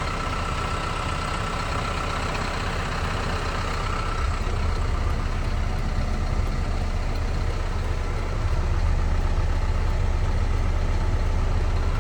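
2018 Isuzu box truck's engine idling steadily, a little louder about four seconds in and again about eight seconds in.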